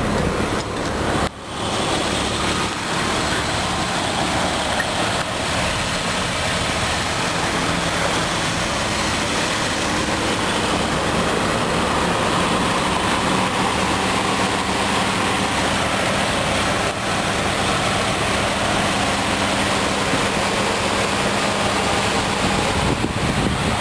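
2004 Jeep Grand Cherokee's 4.0-litre straight-six idling steadily, mostly covered by wind buffeting the microphone.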